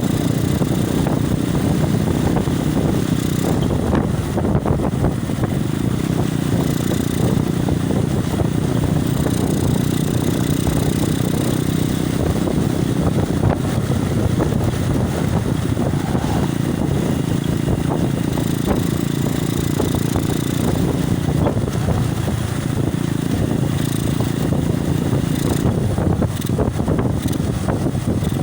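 Loud, steady wind noise buffeting a mobile phone's microphone on a moving motorcycle, with the motorcycle running underneath it.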